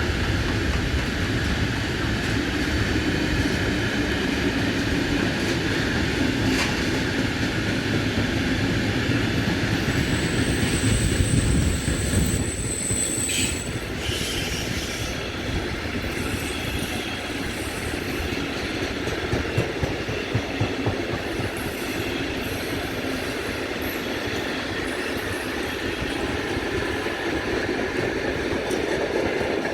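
Train running on the rails, a steady rumble with a short, high-pitched wheel squeal about ten seconds in.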